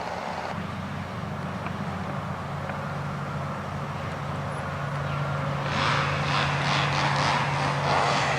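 A motor running with a steady low drone. From about six seconds in, a rougher, pulsing noise rises over it.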